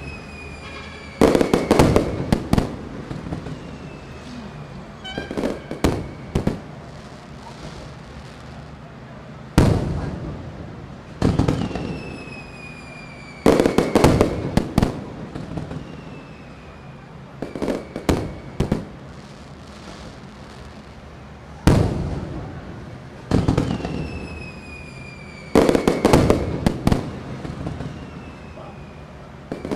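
Fireworks going off: clusters of bangs and crackles every few seconds, each trailing off, with high whistles that fall in pitch between them.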